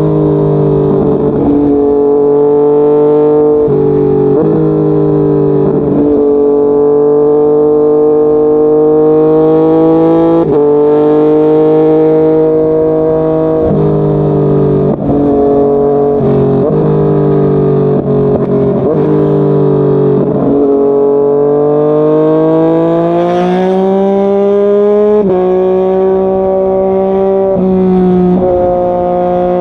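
Yamaha MT-09's three-cylinder engine and exhaust under way, pulling up through the revs and dropping sharply in pitch at each gear change, a dozen or so times, with stretches of steady cruising in between.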